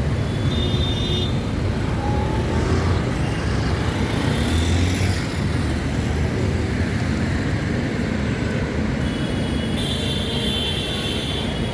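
Steady street traffic noise: a continuous rumble of passing motor vehicles, with brief high tones near the start and again near the end.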